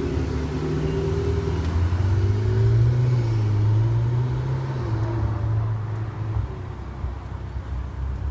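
Ferrari 488 Spider's twin-turbo V8 pulling away at low revs, its note swelling and rising a little about two seconds in, then fading after about six seconds as the car drives off.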